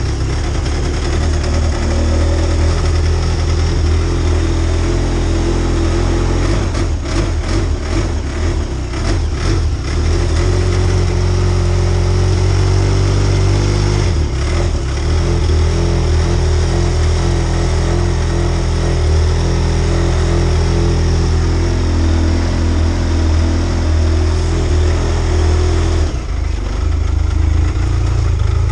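Arctic Cat snowmobile's TZ1 turbo four-stroke three-cylinder engine idling steadily while it warms up after a cold start at −27 °C. The idle speed shifts slightly a few times, and it runs rougher for a few seconds near the start.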